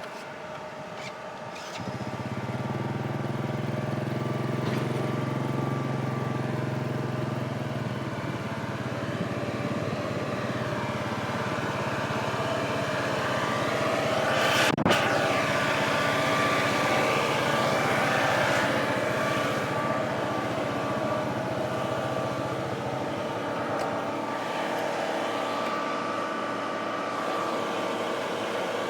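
Zoomlion 37 m truck-mounted concrete pump's engine running steadily, its note stepping up and getting louder about two seconds in. A single sharp knock sounds about halfway through.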